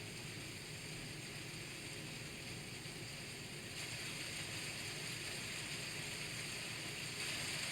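Rain falling steadily, an even hiss that grows a little louder about four seconds in and again near the end.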